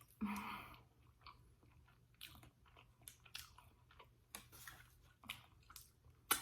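Close-miked eating: a person biting and chewing food, with a louder bite just after the start and then a run of short, crisp crunches.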